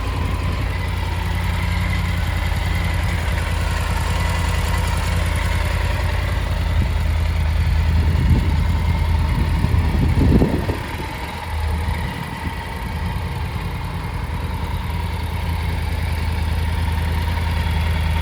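Triumph Tiger 900 GT's three-cylinder engine idling steadily, with a short rise in revs about ten seconds in that falls back to idle.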